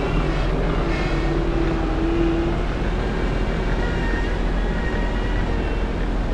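Heavy diesel engine running steadily under work, with a faint whine that slides up and down in pitch over it.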